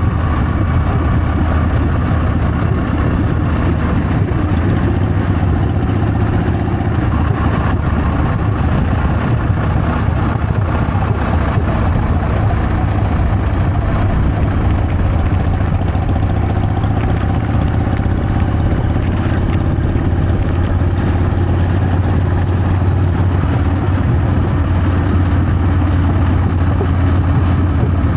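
Harley-Davidson Sportster's air-cooled V-twin engine running steadily while riding, its note drifting gently up and down with small changes in engine speed.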